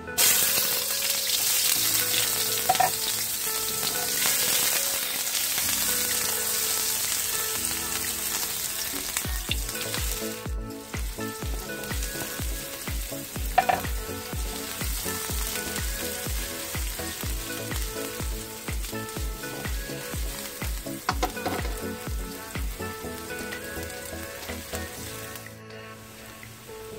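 Chopped onion and minced garlic sizzling in hot oil in a wok while a spatula stirs them. The sizzle starts loud and gradually eases off, with a few sharp taps of the spatula against the pan.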